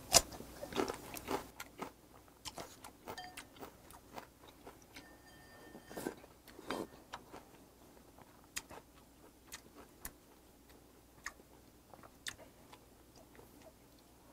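A crisp bite into a raw green Cheongyang chili pepper, the loudest sound and just at the start, then close-miked chewing with scattered small clicks and mouth smacks.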